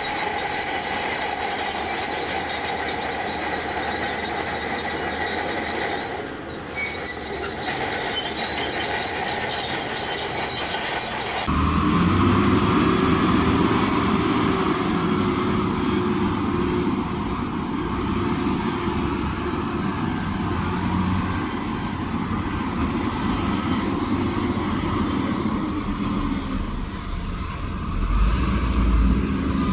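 Heavy earthmoving machinery at work. For about the first eleven seconds a steady, high metallic squeal sounds, like the steel crawler tracks of a bulldozer. Then it gives way abruptly to a louder diesel engine working hard under load.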